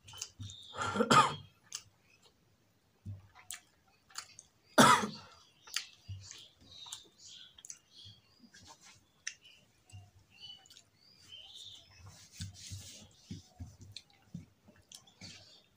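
A man chewing rice and potato-soyabean curry with many small mouth clicks and lip smacks, plus two louder bursts, one about a second in and a sharper one near five seconds in.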